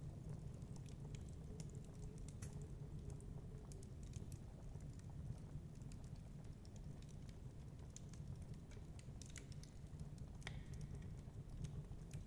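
Wood fire crackling: scattered small snaps and pops over a steady low rumble, with one sharper pop about ten and a half seconds in.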